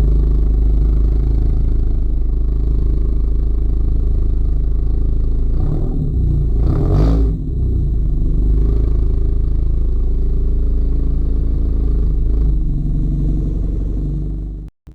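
Exhaust drone of a Honda Accord's 1.5-litre turbocharged four-cylinder through a catless downpipe and aftermarket Thermal R&D cat-back with quad tips, running steadily with a deep low rumble. A short burst of noise breaks in about seven seconds in, and the sound cuts off abruptly near the end.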